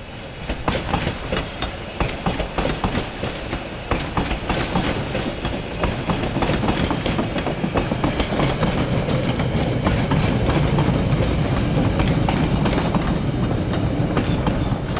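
CTA rapid transit train of Budd-built cars, ending in a flatcar, rolling over a grade crossing. Its steel wheels clack in an irregular run of clicks over the rail joints and crossing, over a steady rumble that swells louder in the second half.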